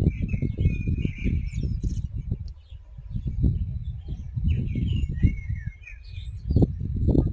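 Small birds chirping in short, twittering phrases, in two spells, over a louder, uneven low rumble.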